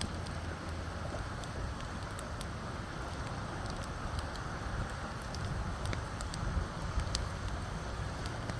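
Firewood fire burning under a cauldron, with scattered pops and crackles over a steady low rumble.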